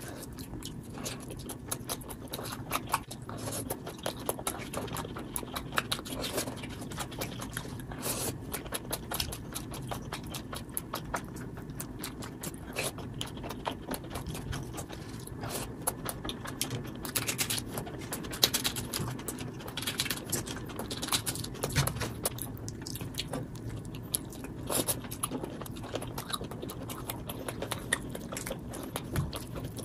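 Close-miked eating sounds: chewing and mouth clicks from mouthfuls of rice and chicken curry eaten by hand, with many short sharp clicks and smacks throughout.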